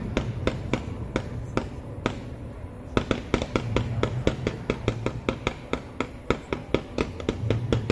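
Fireworks crackling: a rapid string of sharp cracks, sparse at first and much denser from about three seconds in, over a low rumble.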